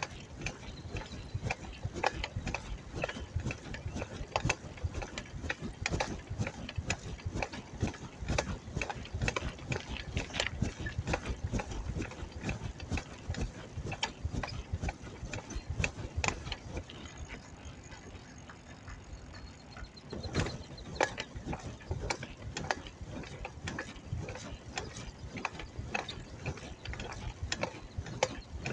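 Bicycle clicking and rattling as it is ridden, mechanical ticks over a low rumble; the clicking eases for a few seconds past the middle, then picks up again.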